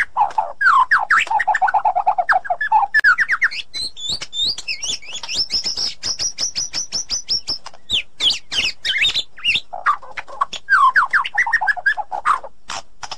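White-rumped shama singing a long, varied song of rapid repeated-note runs, with a fast, high-pitched series of notes in the middle.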